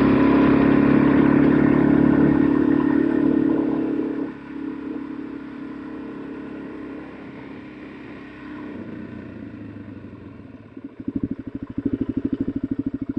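Suzuki DR-Z400 single-cylinder four-stroke motorcycle engine riding under throttle, then dropping sharply to a quieter roll-off about four seconds in. Near the end it settles into a loud, evenly pulsing idle as the bike comes to a stop.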